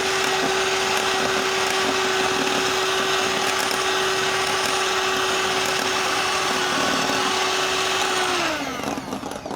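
Electric mixer running on high speed, its beaters whipping cream: a loud, steady motor whine. About eight and a half seconds in it is switched off, and the whine falls in pitch as the motor winds down.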